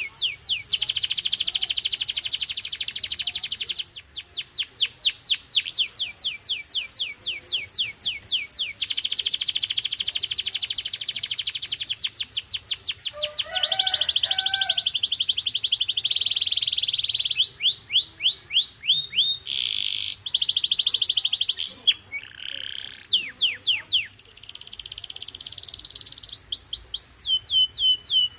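Domestic canary singing a continuous song of repeated phrases. Runs of separate falling whistled notes, about five a second, alternate with very fast trills (rolls).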